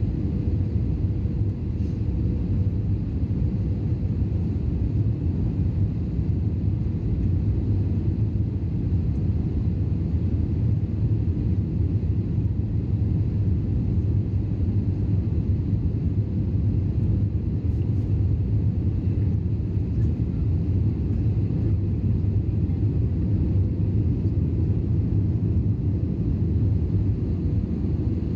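Steady cabin rumble inside an Airbus A320: engine and airflow noise heard from a rear window seat, with a faint steady hum. No change in the sound.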